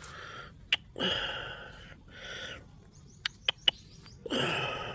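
A bird cage being handled, with a few sharp clicks, between two longer hissing sounds of about half a second each.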